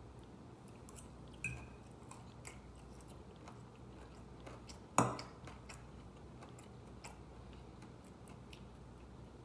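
Chewing of soft food with small mouth clicks, and one sharp click about five seconds in, over a faint steady low hum that the eater takes for the refrigerator running.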